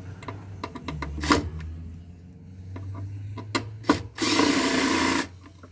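Hand work on metal parts during a solar inverter teardown: scattered clicks and knocks of tools and small parts, then about a second of loud rasping rattle near the end.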